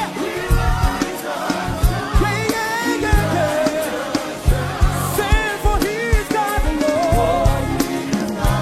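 Upbeat African gospel praise music: singing voices over a steady, driving bass and drum beat.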